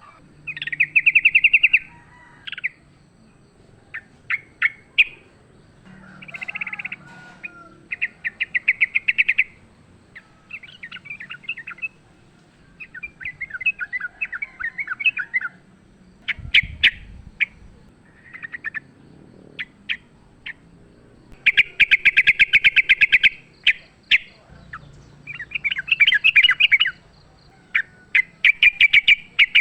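Yellow-vented bulbuls (trucukan) singing and chattering in short bursts of fast, rolling notes, one burst after another with brief pauses, in the excited song of rival birds.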